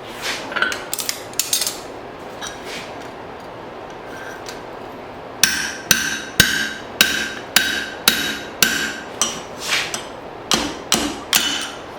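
Blacksmith's hand hammer striking hot file steel over the anvil, driving a tool through to open a hole. A few separate blows come first; then, from about five seconds in, a steady run of about two blows a second follows, each with a short metallic ring.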